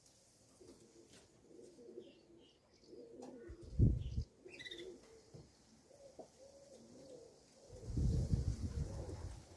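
Racing pigeons cooing, low wavering calls repeated throughout, with a few faint higher chirps of small birds. A loud low rumble breaks in about four seconds in and again from about eight seconds on.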